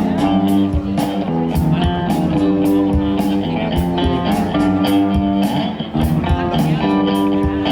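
A live rock band playing: electric guitar over drums keeping a steady beat.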